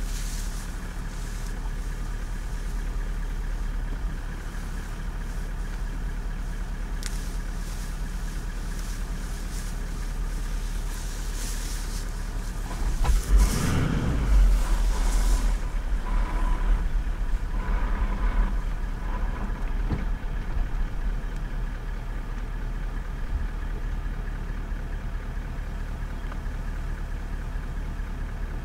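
A vehicle's engine idling steadily, with a louder burst of noise lasting a few seconds about halfway through.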